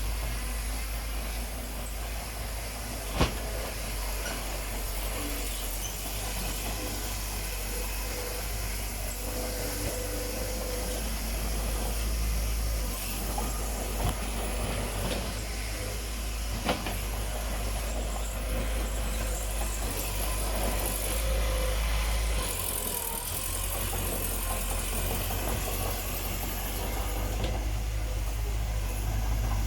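Engine of heavy earthmoving machinery running steadily with a deep rumble, with three short sharp knocks, the loudest about three seconds in.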